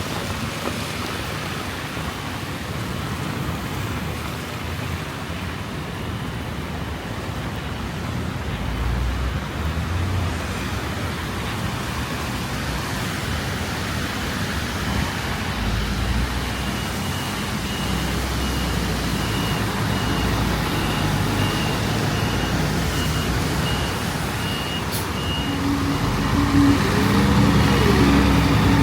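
City road traffic passing, a steady wash of engine rumble and tyre noise. A rapid run of high beeps sounds for several seconds past the middle, and a heavier vehicle's engine grows louder near the end.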